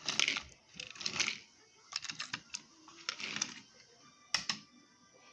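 Toy train engine and freight cars being handled: a few light clicks and rustles, with a sharp click a little after the middle and another near the end.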